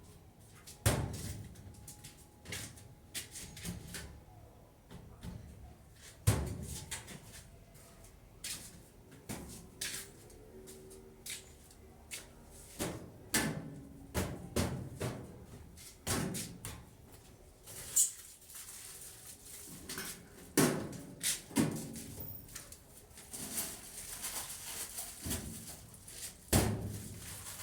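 Irregular knocks, clacks and rattles of parts being handled and fitted on a hot dog cart, with the loudest knocks about a second in and about six seconds in.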